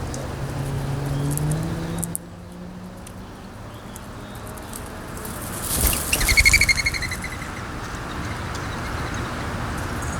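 Windy outdoor ambience. A low engine hum rises slightly in pitch and cuts off about two seconds in. About six seconds in, a loud, short, rapidly pulsed bird call rings out over a low rumble.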